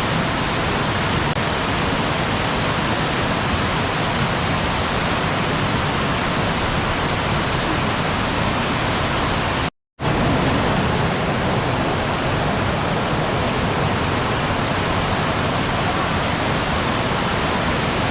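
Waterfall rushing in a steady, even roar of falling water. It cuts out completely for a moment about ten seconds in, then resumes.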